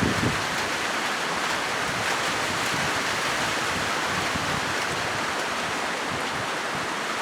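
Steady rain drumming on a corrugated metal roof, an even hiss with a few soft low thuds mixed in.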